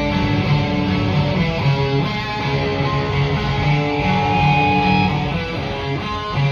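A band playing live, with guitars carrying sustained, ringing notes over a dense low end.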